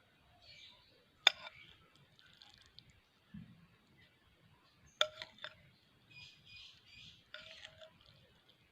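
Lovebirds giving faint short chirps, with a few sharp clicks: one about a second in and a quick cluster of three about five seconds in.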